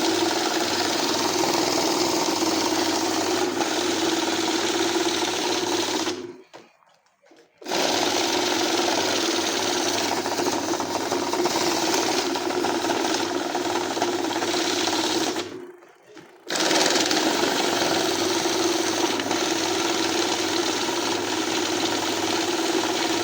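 Banknote counting machine whirring steadily as it runs notes through. It stops briefly twice, about six seconds in and again about fifteen seconds in, and starts again each time.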